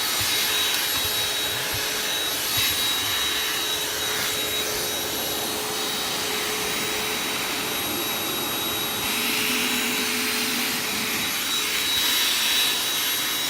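Vacuum cleaner running steadily as the car's interior is vacuumed, a rush of air with a steady high motor whine. The air rush changes a little about nine seconds in as the nozzle moves.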